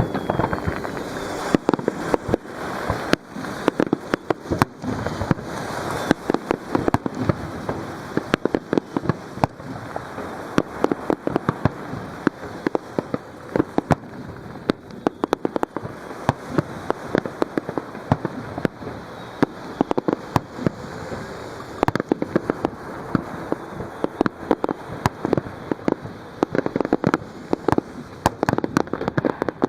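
Fireworks display: a dense, continuous barrage of bursts and crackling reports, many a second, over the wash of waves breaking on the shore.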